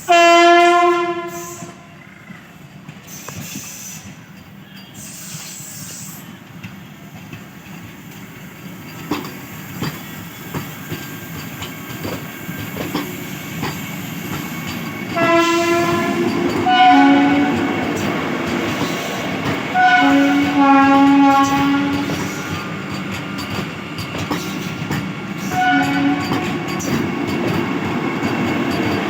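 Vande Bharat Express train running through at speed without stopping, with the rumble and clatter of its wheels on the rails growing louder. Its horn sounds a blast right at the start, then several more about halfway through and once again near the end.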